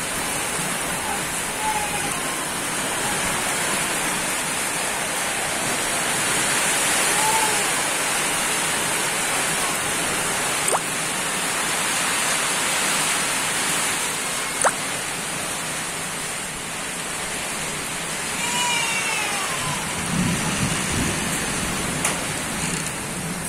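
Heavy rain pouring steadily onto flooded, muddy farmland. A few short high calls sound near the start, about seven seconds in and about nineteen seconds in, there are two sharp ticks around the middle, and a low rumble swells near the end.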